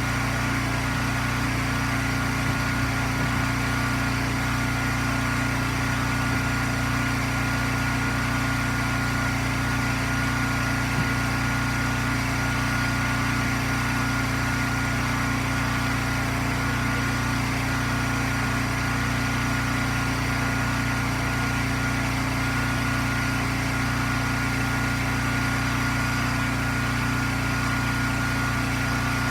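Gas engine of a firewood wood splitter running steadily, with no change in pitch or load.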